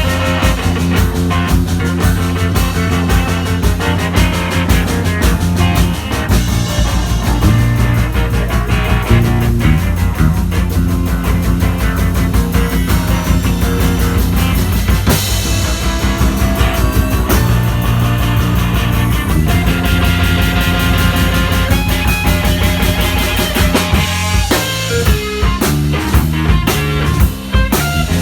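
Live band playing a rock number, with guitar, bass and a drum kit keeping a steady beat.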